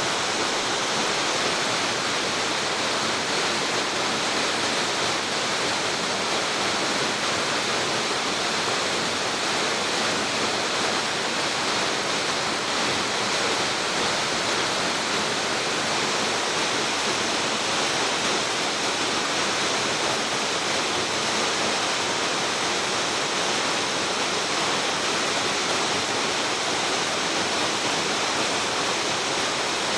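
Rushing water of the Anmon River, a steady, unbroken roar with no change in level.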